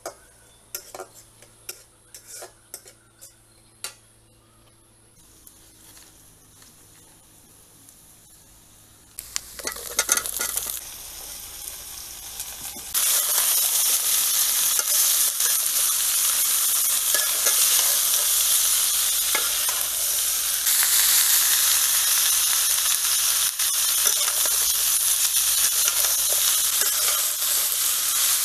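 Sliced spiny gourd frying in hot oil in a metal wok while a metal spatula stirs it. A loud, steady sizzle comes in suddenly about halfway through. Before that it is quieter, with scattered soft clicks.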